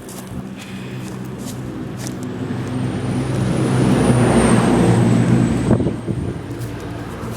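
A motor vehicle driving past, its engine sound building to a peak about four to five seconds in and dropping away at about six seconds. A thin high whine runs over the loudest part.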